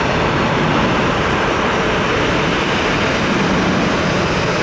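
Steady roar of a departing Southwest Boeing 737's jet engines climbing away after takeoff.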